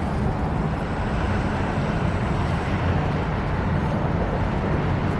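Small passenger ferry's engine giving a steady low rumble as the boat pulls in to the dock.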